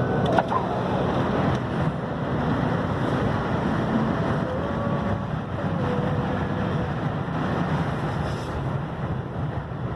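Blizzard wind blowing against a truck, a steady loud rush heard from inside.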